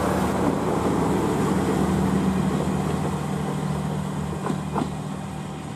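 Train running, a steady low hum of its machinery over rolling noise that slowly eases off.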